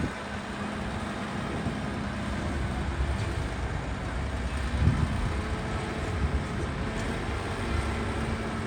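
Heavy diesel earthmoving machinery running steadily, with a brief louder low thump about five seconds in.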